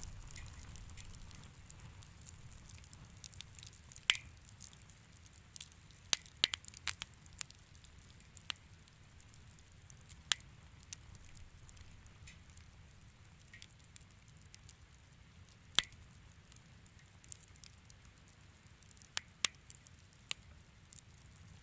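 Wood fire crackling in a fireplace: irregular sharp pops and snaps, a few louder ones scattered through, over a low steady rumble of the flames.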